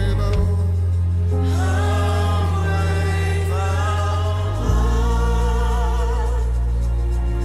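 Gospel worship music: several voices singing long, wavering held notes over sustained low chords that shift about half a second in and again near five seconds.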